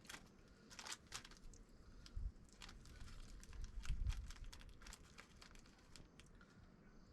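Irregular crinkling and rustling, a string of short crackles, like material being handled close to the microphone, with a couple of low bumps about two and four seconds in.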